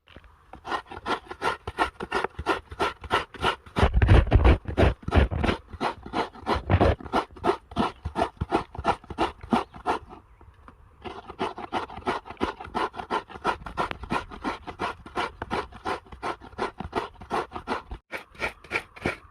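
Hand scraping in quick, even rasping strokes, about three a second, loudest around four to seven seconds in, with a short pause around ten seconds in.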